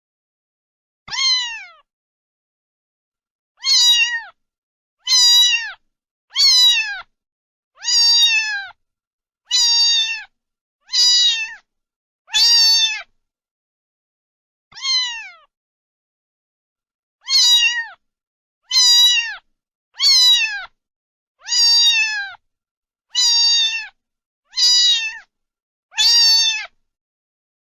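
Domestic cat meowing over and over, about sixteen short high meows, each falling in pitch at its end, with silent gaps of one to two seconds between them.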